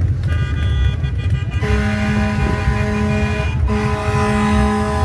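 Vehicle horns honking in long, held blasts over the low rumble of engines and road noise. A fainter horn starts right away, a louder one comes in about one and a half seconds in, breaks off briefly in the middle and then sounds on.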